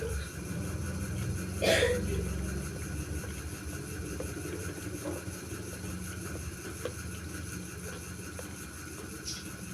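Someone eating a bowl of bakso (meatball soup): a loud, sudden noise of eating about two seconds in, then a few light clicks, over a steady low hum.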